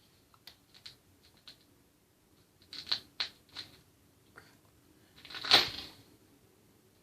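Handling noises: scattered light clicks and rustles, a quick run of sharper clicks about three seconds in, then one louder rubbing whoosh that swells and fades over about a second.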